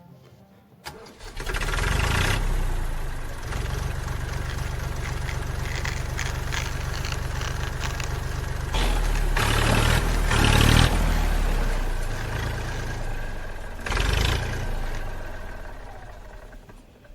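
Tractor engine starting with a click about a second in, then running with a steady low chug. It revs up twice, once in the middle and again later, then fades away near the end.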